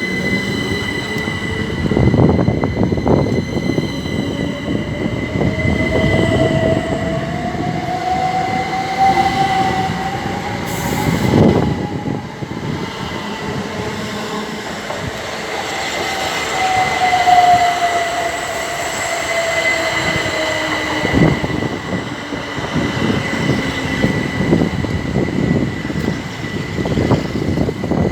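Electric multiple-unit train running through the station, its traction motors whining and gliding in pitch, first rising then later falling, over rumbling wheels with a steady high tone. A few heavy clunks come from the wheels on the track.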